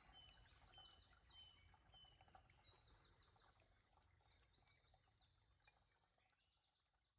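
Very faint woodland birdsong, several birds chirping and trilling with short repeated notes, over a low rumble; it fades out about five to six seconds in.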